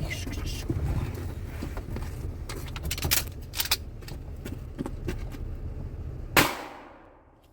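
A vehicle's engine idles under clicks and rattles of doors and gear being handled. About six seconds in, a single loud shot from a pump-action 12-gauge shotgun loaded with skeet shot rings out and fades over about a second.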